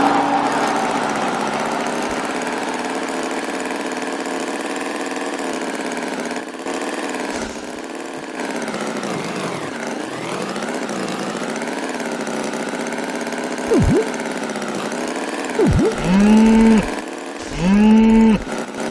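Engine running steadily, its pitch slowly wavering up and down. Near the end come two cow moos, each about a second long.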